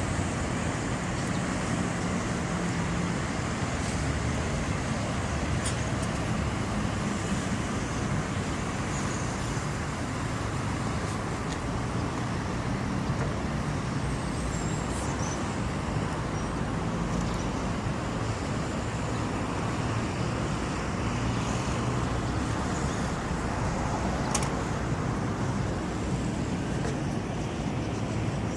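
Steady outdoor background rumble and hiss, like distant road traffic, with a few faint, short, high-pitched chirps scattered through it.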